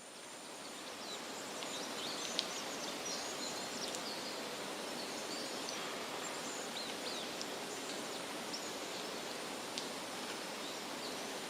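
Outdoor nature ambience fading in: a steady rushing noise with scattered short, high bird chirps, and two faint clicks.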